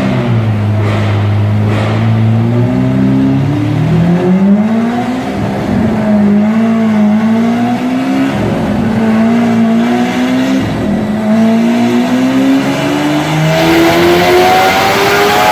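Lamborghini Aventador LP700-4's V12 with a Fi aftermarket exhaust, very loud, revving up and down several times, then climbing steadily in pitch in one long pull over the last few seconds.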